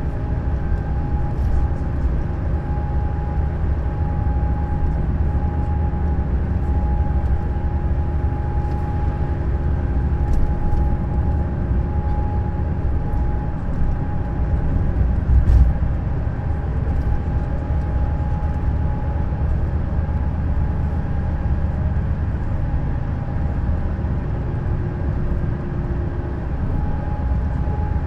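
Neoplan Skyliner N 1122/3C double-decker coach running steadily on the move: a constant low engine and road rumble with a steady whine over it. There is one brief thump about halfway through.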